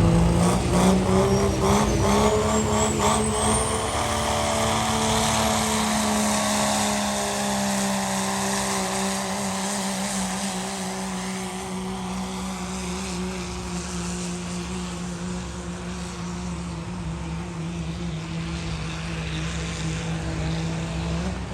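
Diesel pulling vehicle making a sled pull, its engine held at steady high revs under load, with a high whistle climbing in pitch in the first few seconds. The engine gradually gets quieter as it pulls away.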